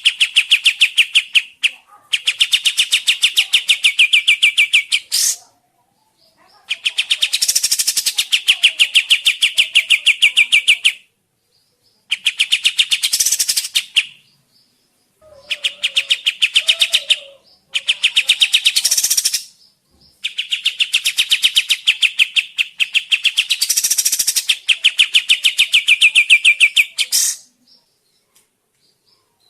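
Kapas tembak (a bulbul-type cage songbird) singing rapid trills of many evenly repeated notes a second, in bouts of a few seconds broken by short pauses.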